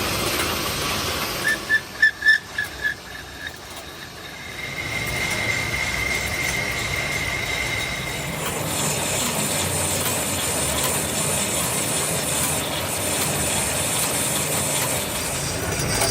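Metalworking machinery in a machine shop. A quick run of about eight ringing metallic taps comes first, then a steady high-pitched whine for a few seconds, then a steady noisy hiss.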